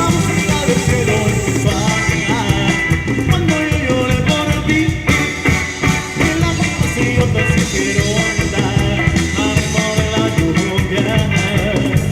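Band playing a song with a steady, driving beat.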